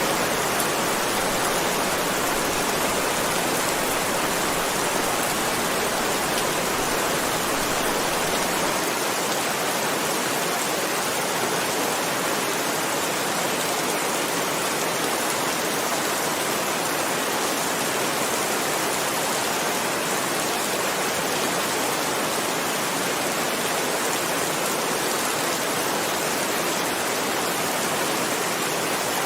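Heavy rain falling steadily, a dense even hiss with no single drops standing out. A faint low rumble underneath fades out about nine seconds in.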